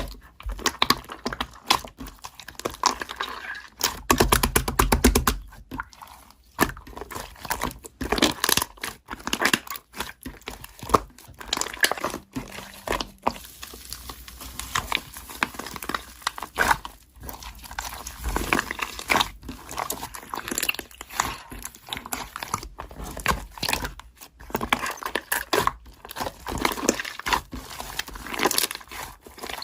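Irregular crinkling, rustling and clicking noises.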